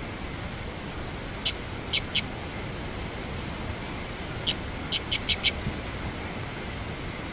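Birds giving short, sharp chip calls, about eight in all in two quick groups, over a steady background hiss.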